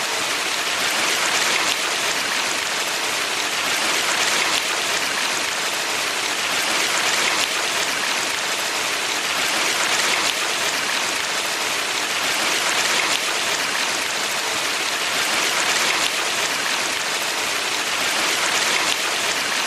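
Water of a valley stream rushing steadily, an even hiss that swells slightly now and then.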